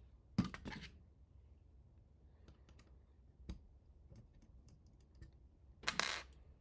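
Small hard parts being handled and set down during assembly: a clatter of knocks about half a second in, a single knock a few seconds later, a louder clattery knock near the end, and light clicks between.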